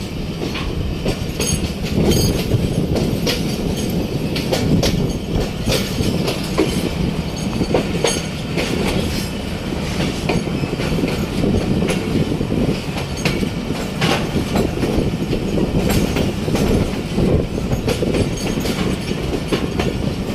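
Passenger train rolling out of a station: a steady rumble of the coaches on the track, with scattered sharp clicks of wheels over rail joints.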